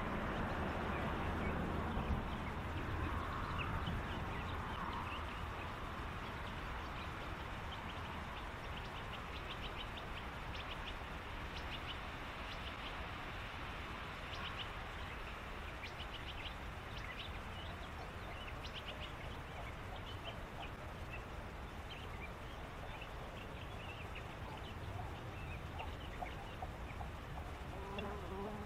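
Birds calling: many short, high chirping calls scattered over a steady background hiss, with a louder low rumble in the first few seconds.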